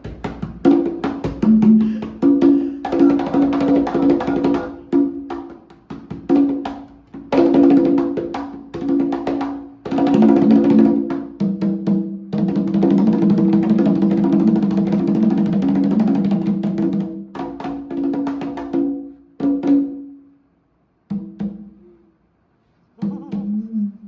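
CMC Prelude congas played by hand: ringing open tones on drums tuned to different pitches in quick patterns, with a sustained fast roll on the lowest drum in the middle. The playing thins to a few scattered strikes between short pauses near the end.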